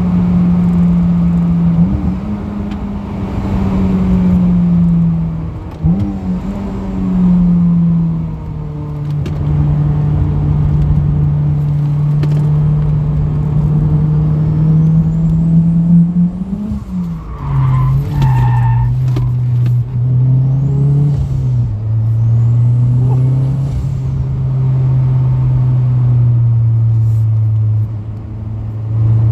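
Honda K20 four-cylinder turbo engine of a Toyota MR2, heard from inside the cabin at part or closed throttle while the car slows for a corner. Its note jumps up in short blips on the downshifts and settles lower after each one. A vibration noise runs through it, which the owner puts down to worn-out engine mounts.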